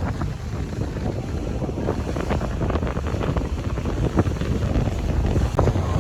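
Wind buffeting the microphone aboard a moving river tour boat: a steady low rumble with scattered short crackles.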